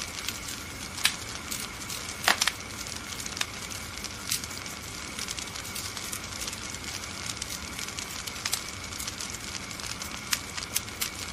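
Wood fire in a fireplace crackling, with frequent sharp pops over a steady hiss. The loudest is a quick double pop about two seconds in.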